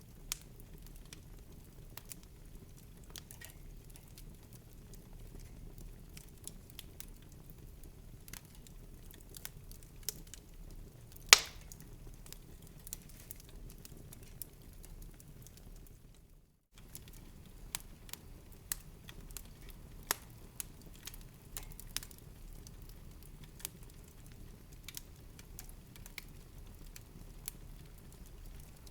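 Wood fire crackling in a fireplace: scattered small pops and snaps over a low steady rumble, with one loud pop about eleven seconds in. The sound cuts out for an instant a little past the middle.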